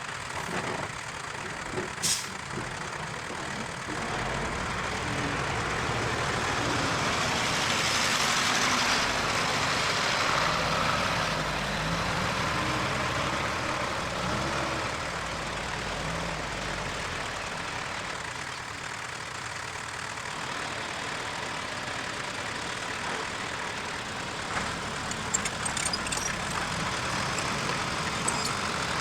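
Diesel engine of heavy earthmoving machinery running steadily, growing louder and noisier for several seconds in the middle. A single sharp clank comes about two seconds in, and a few light clanks come near the end.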